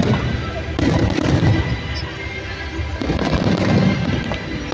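Aerial firework shells bursting and crackling in a continuous barrage. The loudest swells of bursts come about a second in and again after about three seconds.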